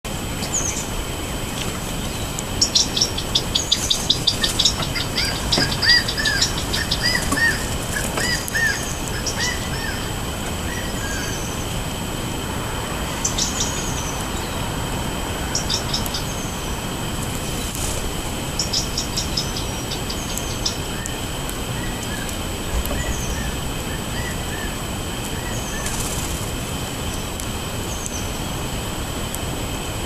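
Songbirds chirping and calling, busiest in the first ten seconds with fast trilled runs of high notes, then scattered single chirps, over a steady background rush.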